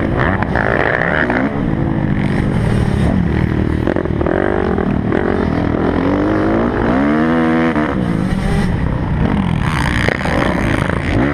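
Kawasaki motocross bike engine running under load, its pitch repeatedly rising and falling as the throttle is opened and closed.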